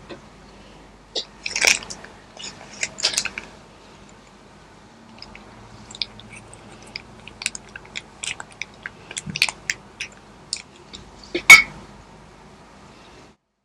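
Close-miked eating: irregular crunchy bites and chewing of food, with the loudest crunch about eleven and a half seconds in.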